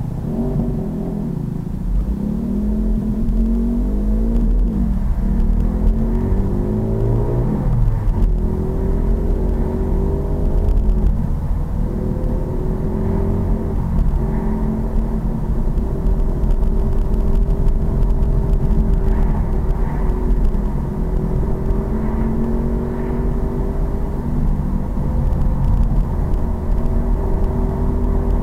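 Pit bike's small engine running under way, its pitch climbing and dropping several times in the first few seconds as the throttle opens and gears change, then holding a fairly steady speed with a few short dips. A steady low rumble runs beneath it.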